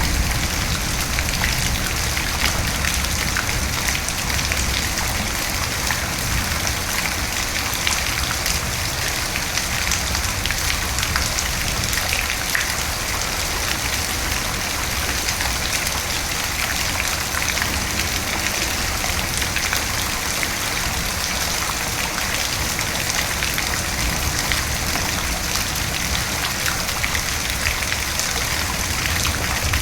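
Steady rain falling, dense fine drop patter over a low rumble, with no distinct thunderclap.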